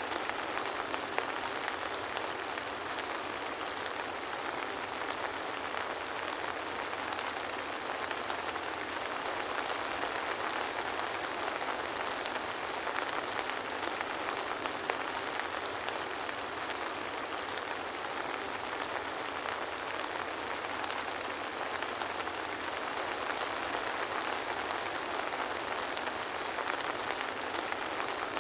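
Steady soft rain pattering, a dense even hiss of many small drops with no thunder.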